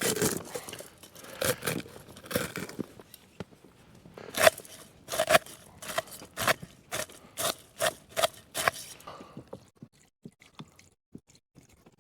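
Plastic food packaging crinkling and tearing as a noodle packet is handled and opened, followed by a run of about ten sharp clicks, roughly two a second.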